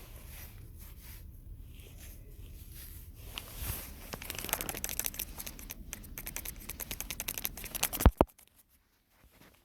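Close-up rustling and crinkling of dry material being handled, building into rapid crackling, then two sharp loud clicks about eight seconds in.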